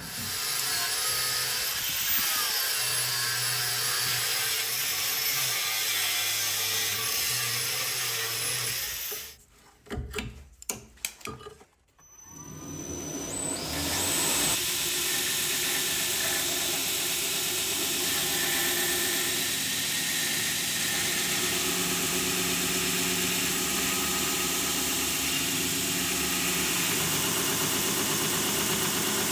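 Electric power tools working a steel blade blank. For the first nine seconds a motor runs with its pitch wavering under load. Around ten seconds in there are a few clicks and knocks, then a second motor spins up and runs steadily.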